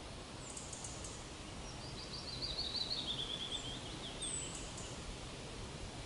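A songbird sings one phrase of rapid notes that step down in pitch, lasting about two and a half seconds, over a steady outdoor background hiss. A few faint high chips come near the start.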